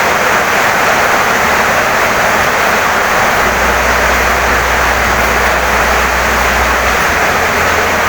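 Heavy rain pouring down steadily on a wooden house: a dense, even hiss with no breaks.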